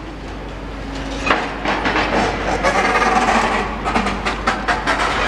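Demolition work: rubble and debris clattering and knocking, with one sharp knock about a second in and a dense run of knocks after it, over the steady rumble of the machinery.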